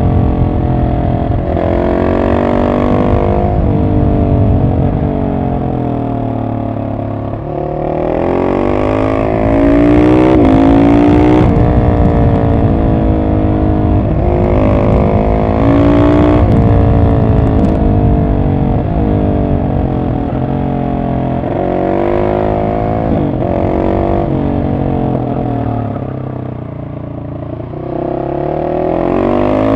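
Husqvarna 701 SM's single-cylinder engine through an Arrow exhaust with the catalytic converter removed, revving up and falling back again and again while riding. The engine note rises and drops several times, going quieter briefly near seven seconds and again near the end.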